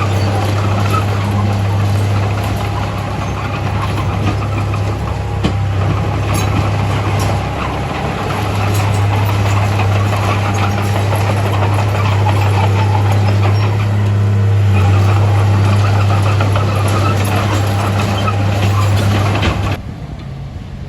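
Heavy diesel engine of a Komatsu D31A bulldozer running steadily, with scattered clanks and clatter over the low engine note. The level drops abruptly about a second before the end.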